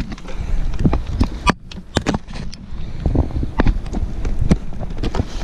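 Irregular sharp crunches and cracks of ice, about three a second, over a low wind rumble on the microphone.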